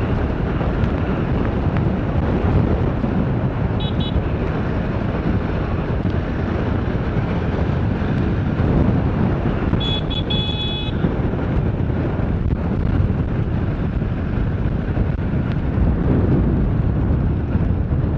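Motorcycle riding along city streets, recorded on a helmet camera: a steady rush of wind and road and engine noise. Short high-pitched beeps cut in briefly about four seconds in and again, stuttering, around ten seconds in.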